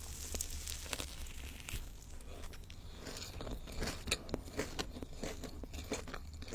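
Close-miked biting and chewing of crisp food: a string of crackly crunches that come thicker and faster in the second half.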